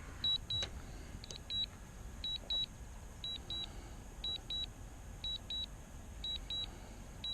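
Drone remote controller sounding its low-battery alarm: short high double beeps about once a second, warning that the aircraft battery is down to about a quarter.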